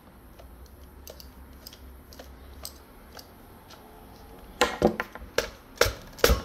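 Plastic parts of a hair dryer clicking and knocking as its housing is worked loose during disassembly: faint scattered ticks at first, then a run of sharper, louder clicks near the end.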